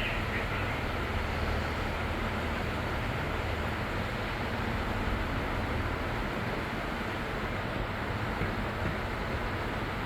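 Steady factory-floor machinery noise: an even hum and hiss that holds at a constant level, with no distinct knocks or clicks.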